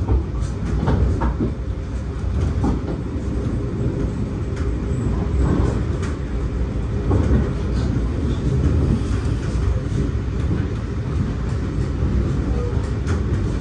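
NSW TrainLink V set intercity carriage running along the line: a steady low rumble of wheels on rail, with scattered short clicks and knocks.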